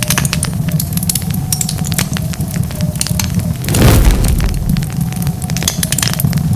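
Wood fire crackling: many sharp pops and snaps over a steady low rumble of the flames. About four seconds in there is a louder rush of noise lasting about half a second.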